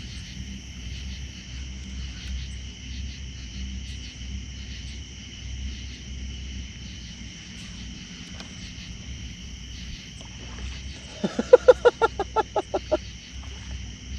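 Night insects chirring steadily in a continuous chorus, over a low hum. About eleven seconds in, a quick run of about ten pitched pulses, some six a second, is the loudest sound.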